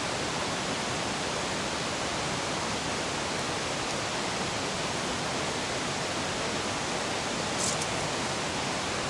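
Steady rushing of a nearby river, an even wash of noise, with one brief click near the end.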